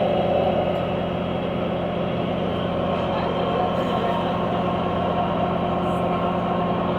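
Tour boat's engine running steadily, a constant droning hum.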